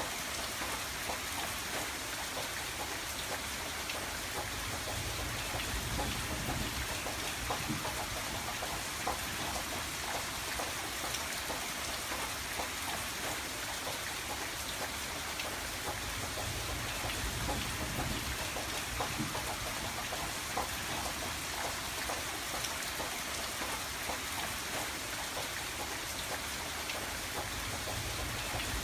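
Steady rain pattering on a window pane, many individual drops ticking over a constant hiss.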